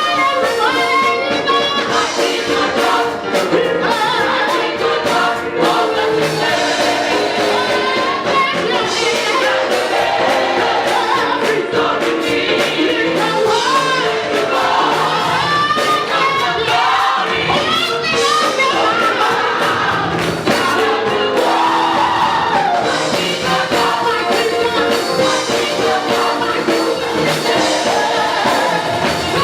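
Gospel music with voices singing together over a band, steady and loud throughout.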